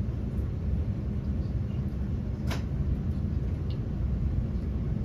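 Steady low rumble inside the passenger saloon of a Class 350 Desiro electric multiple unit moving slowly, with one sharp click about two and a half seconds in.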